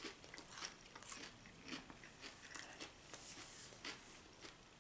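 Faint chewing and crunching of fried herring eaten bones and all: a run of short, irregular crunches.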